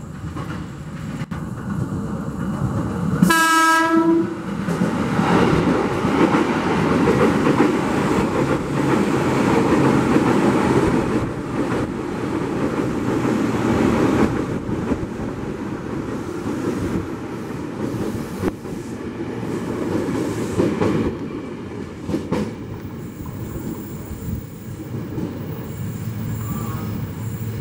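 KRL Commuter Line electric commuter train sounding one short horn blast about three seconds in, then running past with loud rumbling and clatter of its wheels on the rails, which eases off in the last few seconds.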